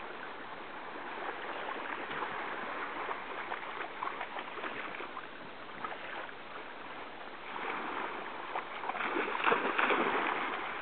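Sea water splashing and washing in the shallows, a busy, crackly noise that grows louder and more splashy for the last few seconds.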